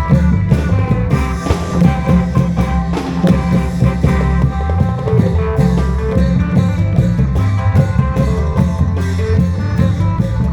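Isan folk music from a klong yao long-drum troupe: drums and percussion keep a steady beat under a melody line with heavy bass.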